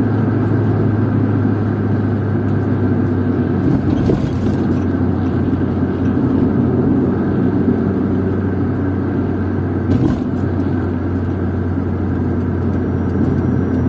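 Steady engine and road noise heard from inside a moving car's cabin: a constant low hum under a dense rumble of tyre noise. Two brief clicks come about four and ten seconds in.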